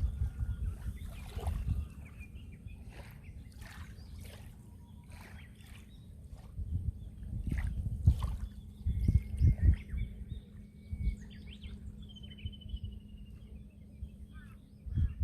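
Sea waves washing and splashing, with low surges that rise and fall. Birds call over them with short whistled notes and a trill about twelve seconds in.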